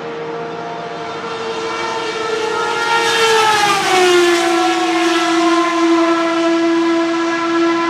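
Historic Group C race car engine running at speed and passing, its note growing louder, dropping in pitch about three and a half seconds in, then holding a steady, lower note.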